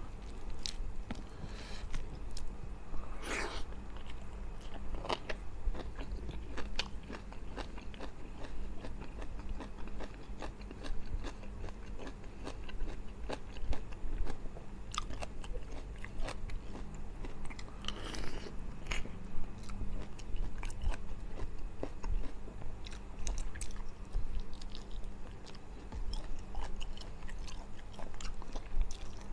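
A person chewing mouthfuls of rice and fish eaten by hand, close to the microphone, with many small clicks and a few louder bites.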